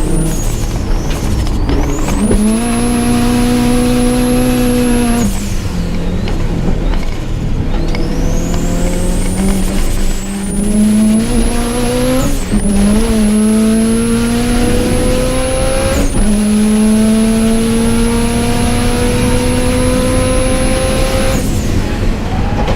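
Subaru Impreza GC8's flat-four boxer engine under hard acceleration, heard close up from the engine bay: its pitch climbs through each gear and drops sharply at several upshifts, then the driver lifts off near the end.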